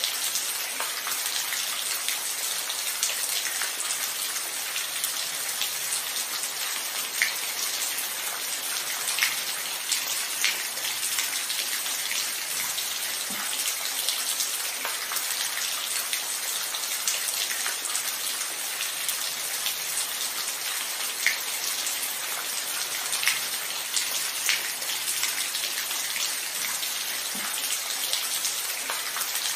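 Steady rain falling: an even hiss of rainfall with occasional single drops splashing louder, about a dozen times.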